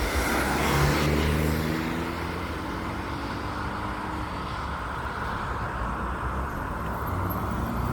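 Road traffic: a motor vehicle passes close about a second in, its engine tone audible for a few seconds, over steady tyre and traffic noise.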